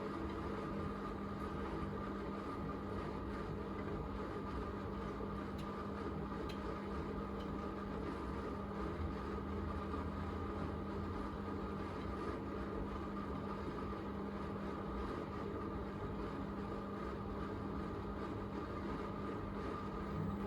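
Miele Navitronic W3985 WPS washing machine spinning after the main wash, its drum held at a constant speed: a steady hum with a higher whine above it.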